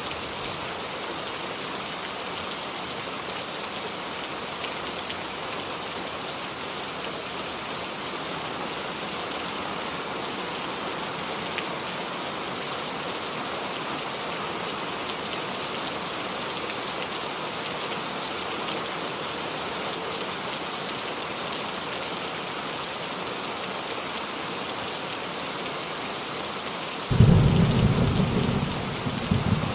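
Steady rain falling on a roof, an even dense hiss. Near the end a loud, deep rumble of thunder breaks in suddenly and keeps rolling.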